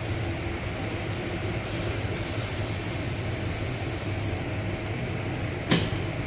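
Steady mechanical hum with a hissing noise, broken by a single sharp click about three-quarters of the way through.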